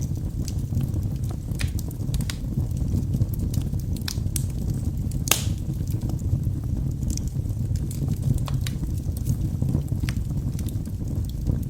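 Wood fire burning in a fireplace: a steady low rumble of the flames with irregular sharp crackles and pops from the logs, one louder pop about five seconds in.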